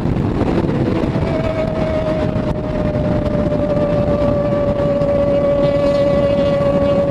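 Kawasaki ER6N's parallel-twin engine running on the road, with wind noise. Its note steps up in pitch about a second in, then sinks slowly and steadily.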